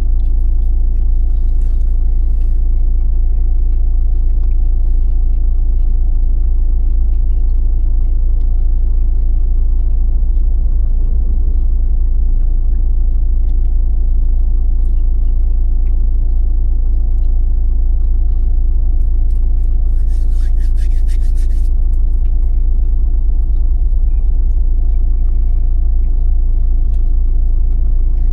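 Vehicle engine idling steadily, a deep, even hum. There is a brief rustle about twenty seconds in.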